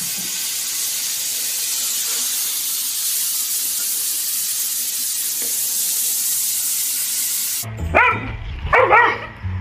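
Steady hiss of running water in a bathtub that cuts off abruptly about three-quarters of the way through. A dog then barks and yips a few times.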